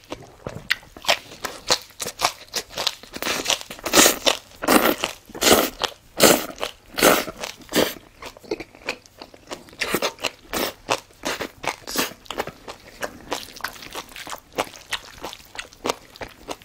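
A mouth close to the microphone chewing kimchi: a steady run of crisp, wet crunches, loudest and most crowded a few seconds in, then lighter chewing.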